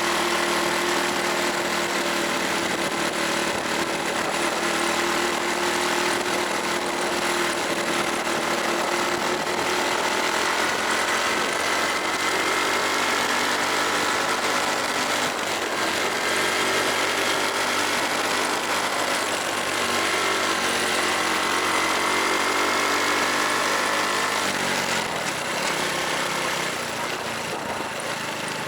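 Honda Super Cub's single-cylinder four-stroke engine running while riding, its pitch drifting up and down with the throttle. Near the end it drops in pitch and gets quieter as the throttle is eased off.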